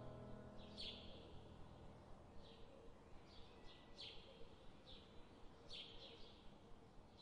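Faint birdsong: short, high chirps repeating every half-second to a second. The tail of soft background music fades out in the first second.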